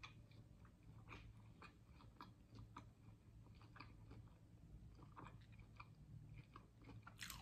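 Faint close-up chewing of a toasted bagel with crispy hash browns, mouth closed: soft irregular crunches and mouth clicks, with one louder crunch near the end.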